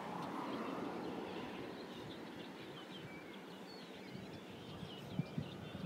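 Small birds chirping over a steady outdoor background hiss, with a few short soft thumps near the end.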